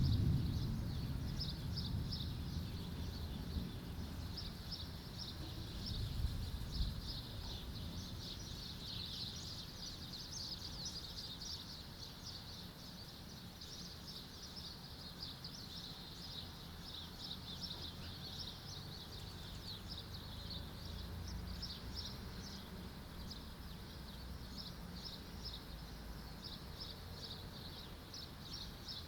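The tail of a thunder rumble dying away over the first couple of seconds, with a fainter low rumble about six seconds in, over a steady low background. Birds chirp continuously throughout.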